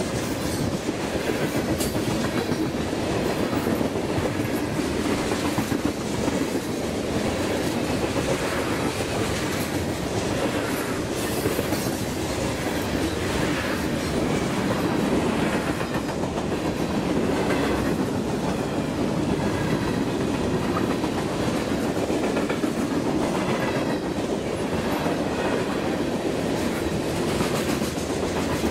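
Freight train cars rolling past close by: a steady rumble of steel wheels on rail, with repeated clicking and clattering from the wheels and trucks. The cars are tank cars, covered hoppers and boxcars.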